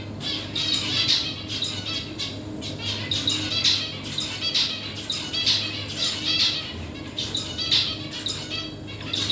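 Birds squawking over and over, harsh calls coming about one to two a second, with a steady low hum underneath.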